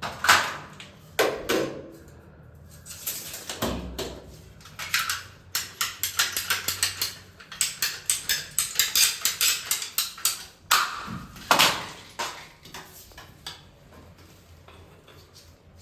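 A plastic plumbing pipe being cut to length: a run of rapid, even strokes, about four or five a second, lasting some five seconds in the middle, among scattered clicks and knocks of the pipe and fittings being handled.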